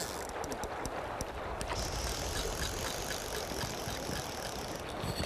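A fly reel's click drag ticking in scattered bursts as a freshly hooked trout pulls line off it, over the steady rush of river water.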